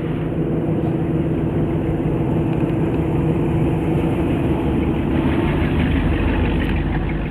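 1957 Nash Ambassador's 327 cubic-inch V8 idling steadily, with a deeper low rumble coming in about five seconds in.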